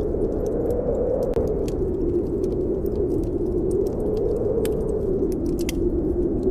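Snowstorm wind blowing steadily, its pitch wavering slowly up and down, over a wood fire in a fireplace crackling and popping with irregular sharp snaps.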